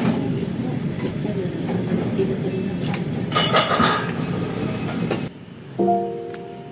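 Restaurant noise: a steady background din with dishes and cutlery clinking, the clinks loudest a little past halfway. About five seconds in it cuts off abruptly and plucked ukulele music begins.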